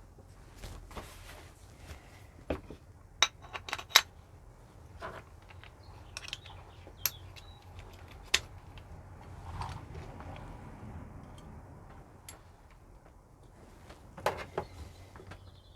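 Small metal parts of a vintage hand drill clinking and clicking irregularly as they are handled and fitted during reassembly: a few sharp clicks, with a cluster a few seconds in and another near the end.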